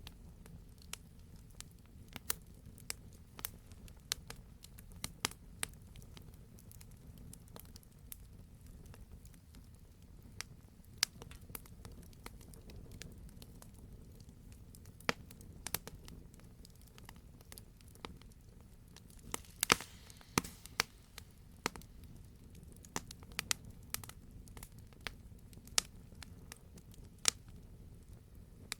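Wood fire in a fireplace crackling, with irregular sharp pops over a low steady rumble, and a quick cluster of louder pops about twenty seconds in.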